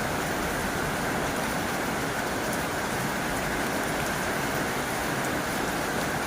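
Heavy rain falling on a tin roof: a steady, dense hiss with faint scattered drop ticks.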